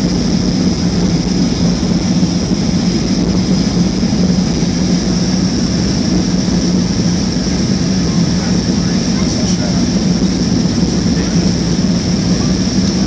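Boeing 737-300 jet airliner noise, steady and unchanging: an even low hum with a thin high whine above it.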